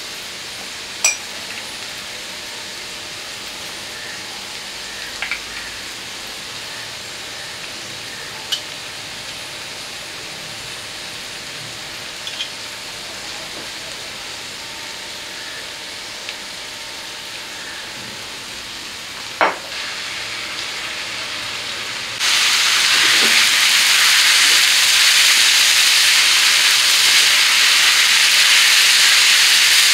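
Noodles and vegetables frying in a nonstick pan: a low, steady sizzle with a few short sharp clicks and taps, the loudest about two-thirds of the way in. Then the sizzle jumps suddenly much louder as the noodles are stir-fried with a spatula.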